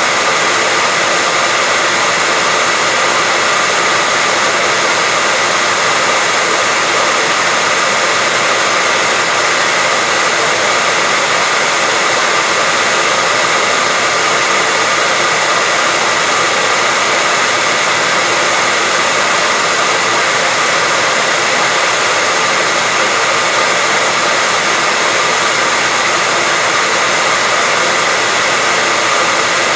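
Electric hair dryer running steadily, an even blowing hiss with a faint motor whine, played as white noise to lull a baby to sleep.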